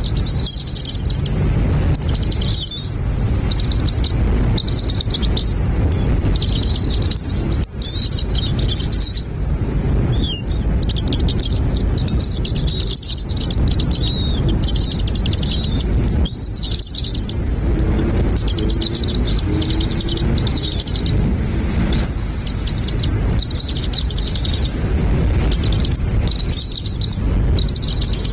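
Nestling birds chirping in fast, high-pitched bursts of a second or two, one after another, over a steady low rumble.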